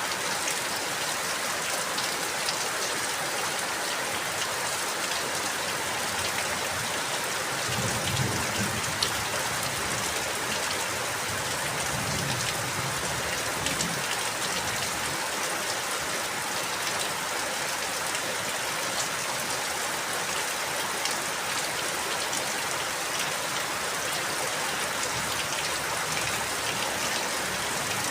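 Steady rain falling, with scattered drops ticking on a surface and a faint low rumble about a third of the way in.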